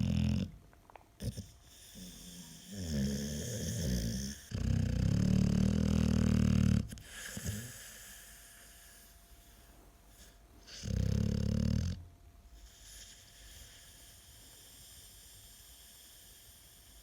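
American Staffordshire terrier snoring loudly in its sleep. There are several low snores, the longest about five seconds in and a last one about eleven seconds in, and then the snoring goes quiet.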